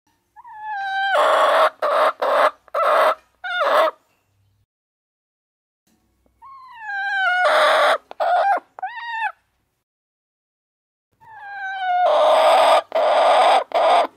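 A rooster crowing three times, each crow starting on a pitched, sliding note and breaking into harsh, choppy syllables, with silence between crows.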